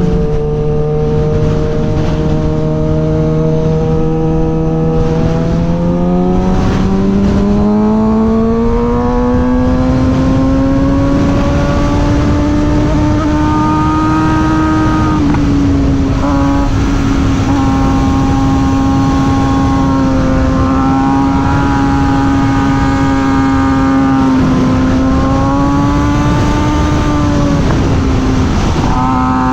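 Suzuki GSX-R 600 inline-four engine running under way, steady at first, then climbing in pitch from about six seconds in as the bike speeds up. It then holds fairly level with a few brief dips, over a rush of wind.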